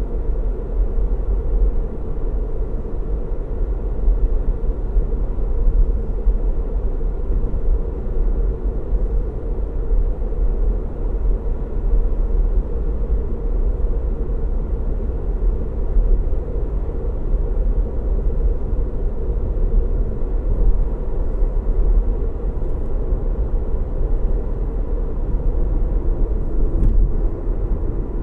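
Car driving at a steady speed: a low, even rumble of engine hum and road noise that doesn't change.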